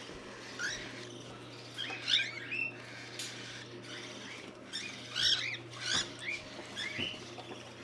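Young cockatiels chirping and calling in short bunches of quick rising and falling squeaks, over a low steady hum, with a couple of sharp clicks.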